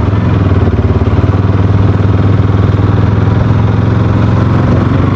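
Bajaj Pulsar NS200 motorcycle's single-cylinder engine running at a steady, unchanging pitch.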